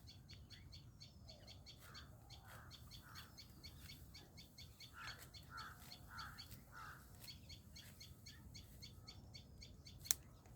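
Faint birds calling: two short runs of repeated, evenly spaced calls, three then four, over a fast, even high chirping of about five pulses a second. A single sharp click near the end.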